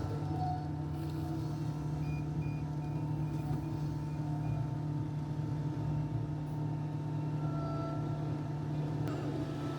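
Heavy road-works machinery running steadily at a night asphalt job, a continuous diesel engine hum sped up by double-speed playback. About two seconds in comes a row of short, evenly spaced high beeps, roughly three a second, lasting a couple of seconds.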